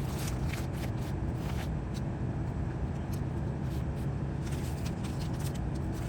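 Steady low mechanical hum, with scattered light clicks and rustles of handling over it.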